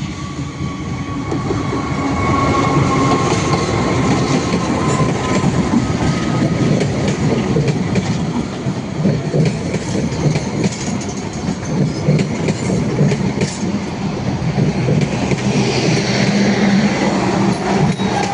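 A train passing close by: a steady rumble of the wagons with wheels clattering over the rail joints, building over the first couple of seconds and then holding.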